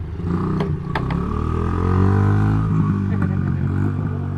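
Small single-cylinder pit bike engine revving up as the bike pulls away, its pitch climbing for about two seconds and then holding steady. A couple of sharp knocks sound about a second in.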